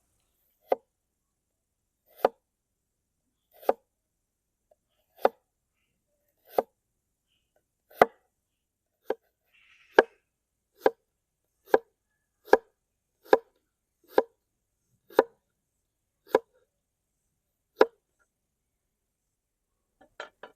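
A knife chopping food on a cutting board, about sixteen single cuts. They come about a second and a half apart at first, quicken to under a second apart in the middle, then slow again near the end.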